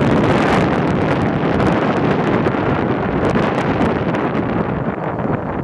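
Wind buffeting the microphone over a monster truck running during a ride, with frequent knocks and rattles.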